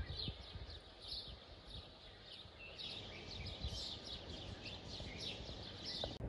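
Faint bird chirping: many short, quick, downward-sliding chirps, growing denser about halfway through, over a low rumble.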